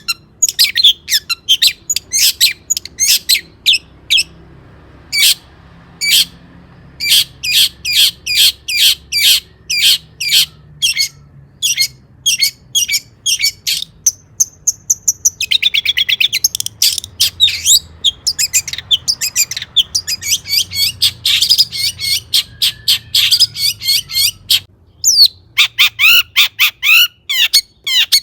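Long-tailed shrike singing: a fast run of sharp, chattering notes, several a second, broken by short pauses, with a denser warbling passage about three-quarters of the way through.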